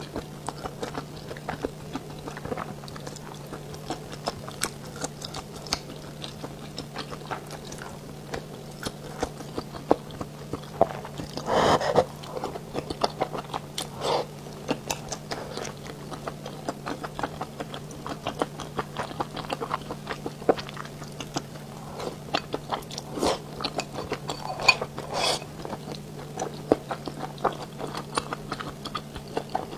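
Close-miked chewing and biting of spicy mala xiang guo, with many small wet mouth clicks. A longer, louder mouth sound comes about twelve seconds in. A faint steady low hum runs underneath.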